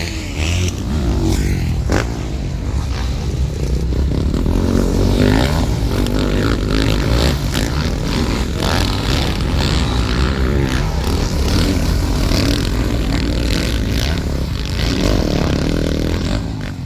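Motocross bikes racing, their engines revving up and easing off again and again as the riders work the track.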